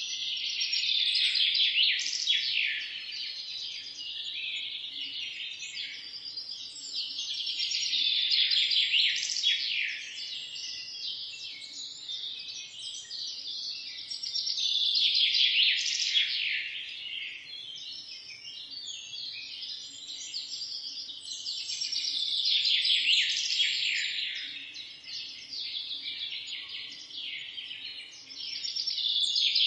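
Songbirds singing: a rapid, chirping song phrase swells up about every seven seconds, with quieter chirps from other birds in between.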